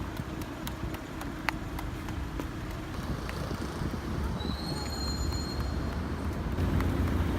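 Street traffic rumble with scattered light clicks, a brief high squeal around the middle, and a vehicle engine growing louder near the end.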